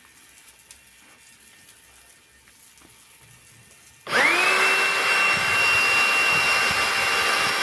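An electric motor from a pressure washer switched on about four seconds in, spinning up within a fraction of a second and then running steadily with a high whine over a loud hiss. Before it starts there is only faint room sound with a few light ticks.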